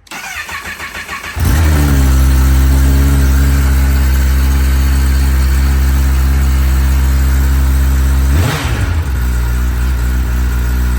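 2024 Kawasaki ZX-10R's inline-four on its stock exhaust, cold-started: the starter cranks for about a second and a half, then the engine catches and settles into a steady fast idle. There is a brief dip and change in pitch about eight seconds in, and the stock exhaust is quiet in the owner's view.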